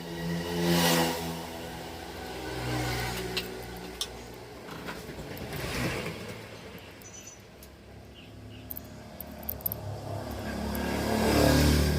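Honda Activa 110 scooter engine running, revved up and let fall back three times: about a second in, around six seconds in, and near the end. A few light clicks come in between.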